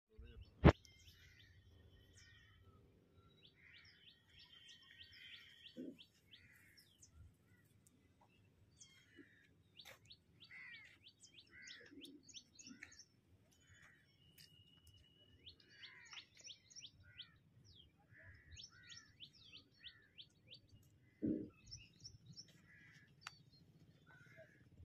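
Small birds chirping and trilling in quick repeated series, faint, with a sharp click just under a second in and a duller thump late on.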